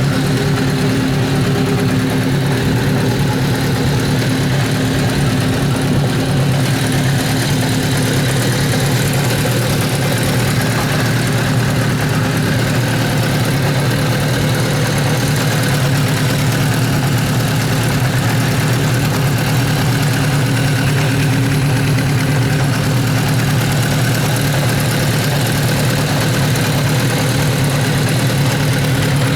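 Kawasaki Z500 racer's air-cooled inline-four engine running at a steady idle.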